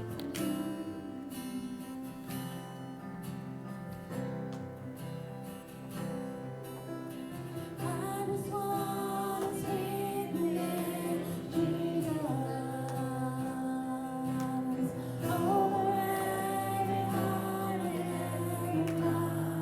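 Acoustic guitar strumming, with singing coming in about eight seconds in.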